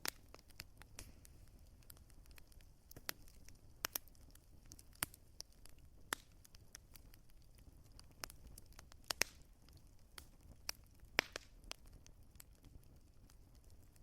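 Burning wood in a fireplace crackling, with irregular sharp pops over a faint low rumble; a few louder pops stand out past the middle.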